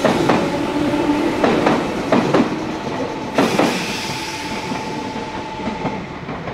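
Meitetsu electric train running through the station, its wheels knocking over rail joints in irregular pairs of clacks over a steady running hum, slowly getting quieter.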